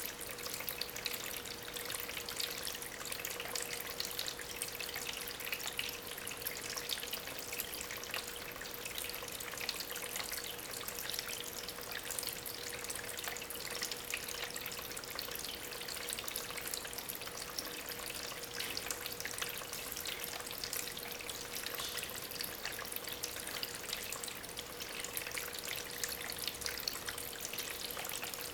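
Water from a small homemade tabletop waterfall trickling and splashing over stones in a steady, crackly patter of fine drips. A thin steady hum sits underneath, from the small aquarium pump that lifts the water.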